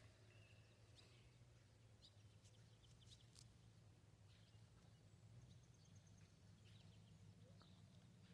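Near silence: faint outdoor background with a few scattered bird chirps.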